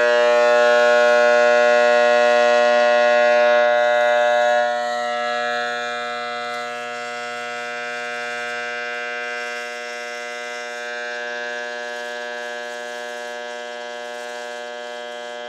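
Rewired microwave oven transformer buzzing loudly with a steady mains hum, its low-voltage, high-current secondary shorted through a length of coat hanger wire to melt it. The hum switches on suddenly and drops in level about four and a half seconds in, then carries on steadily.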